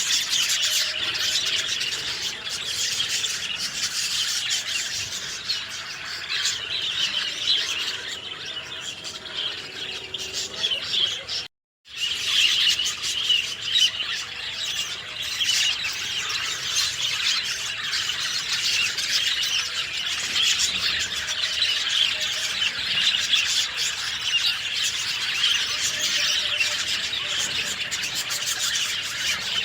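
Many birds chirping and singing at once in a dense, unbroken chorus of high, overlapping calls. The sound cuts out completely for a split second about twelve seconds in, then resumes.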